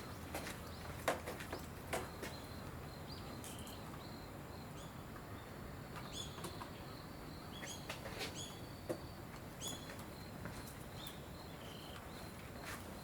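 Small birds chirping: many short, high notes that sweep in pitch, scattered through, over a low steady background hiss. A few sharp knocks sound in the first two seconds.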